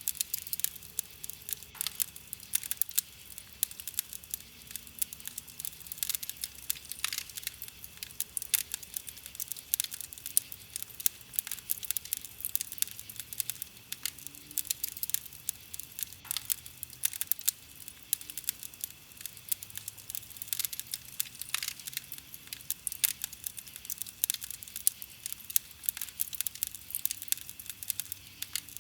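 Wood campfire crackling, a dense run of irregular snaps and pops with a few louder cracks.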